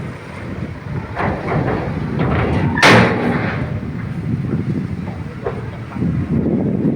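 Shantui bulldozer running under load, its engine rumbling with scattered clanks, and one loud, sharp bang about three seconds in.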